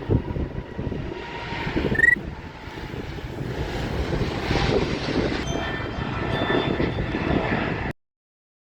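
Airliner engine noise rumbling at the airport, with wind buffeting the microphone, swelling somewhat after a few seconds. A short high chirp comes about two seconds in, and the sound cuts off abruptly near the end.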